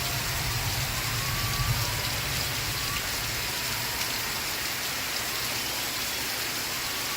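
Steady rain falling on a surface, an even hiss of drops, with faint muffled TV-show audio underneath that fades in the first couple of seconds.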